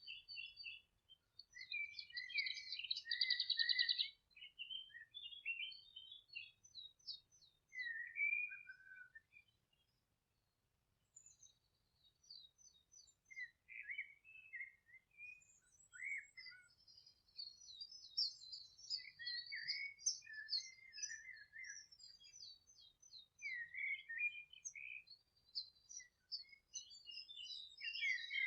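Several songbirds singing and chirping at once: short whistled phrases, chirps and fast trills, the loudest a rapid trill about three seconds in, with a brief lull about ten seconds in.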